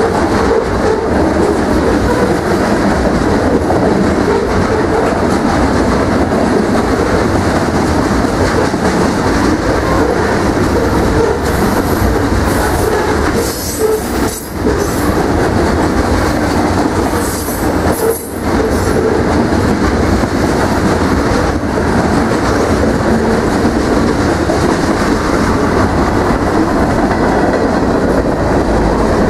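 Covered hopper cars of a freight train rolling past close by: a loud, steady rumble and clatter of steel wheels on the rails, with a couple of brief high-pitched wheel squeals near the middle.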